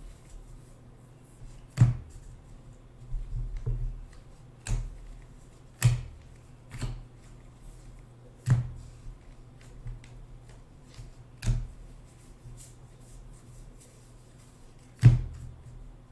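Baseball trading cards being handled during a box break: sharp snaps and taps as cards are flicked and set down, about seven loud ones spaced irregularly, with a short stretch of rustling a few seconds in.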